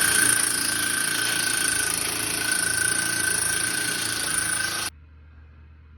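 A machine running steadily and loudly with a high whine over a dense hiss, cutting off abruptly about five seconds in.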